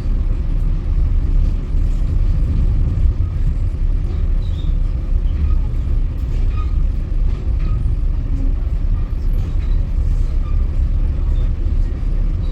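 Steady low rumble of a passenger train rolling along the track, heard from on board.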